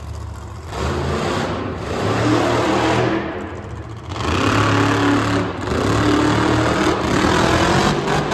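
Monster truck engine revving hard in two long bursts, easing off briefly near the middle.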